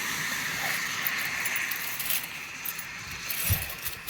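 A bunch of keys on a ring jingling and clinking now and then while they are sorted through in search of the right one, over a steady background hiss.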